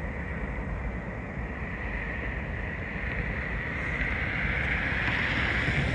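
Freight train rolling away down the track, heard from a distance as a steady rumble and rail hiss that grows a little louder near the end.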